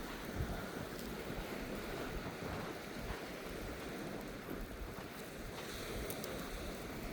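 Waves washing on a beach, with wind gusting on the microphone.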